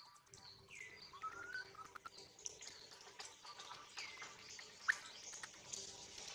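Faint bird chirps and calls: a scattered run of short whistles, some falling and some rising in pitch.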